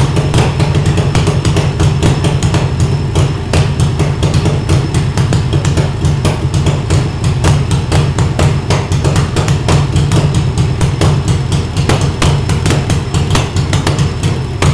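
1942 Harley-Davidson WLA Servi-Car's 45 cubic inch flathead V-twin running at a steady idle through straight pipes, each exhaust pulse a sharp crack in a quick, slightly uneven beat, while it warms up from a cold start.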